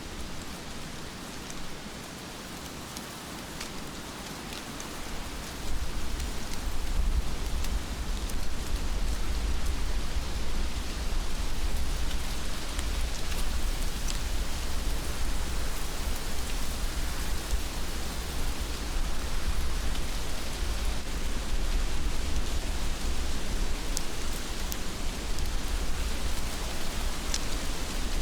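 Steady heavy rain with a few sharp, separate drops. A low rumble under it grows louder about five or six seconds in and then holds.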